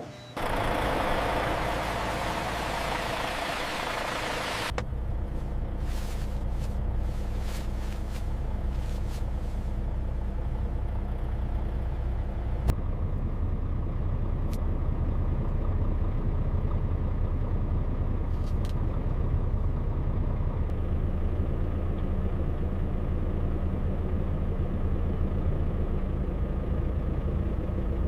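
Big truck's engine running, a steady low rumble, over several spliced segments. For the first four seconds a louder rushing noise sits on top of it.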